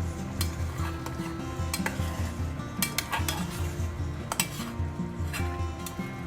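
A utensil stirring food in a cooking pot, with sharp clinks as it knocks against the pot a dozen or so times, over background music.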